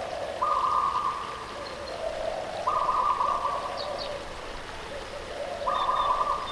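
A bird calling over and over, about every two and a half to three seconds: each call a hoarse note followed by a lower one, three calls in all. Faint short high chirps of other birds sound over a steady rush of flowing water.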